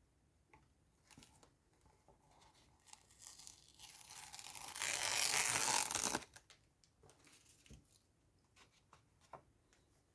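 A long tearing sound that builds gradually, is loudest for about a second and a half, then stops abruptly, with a few small taps and clicks around it.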